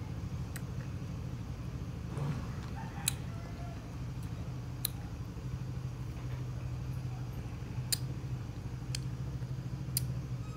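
A person chewing rambutan flesh, with about six sharp mouth clicks at uneven spacing, over a steady low hum.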